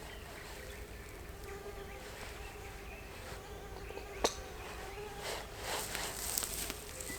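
An insect buzzing steadily on one held pitch. There is a single sharp snap about four seconds in, and soft rustling near the end.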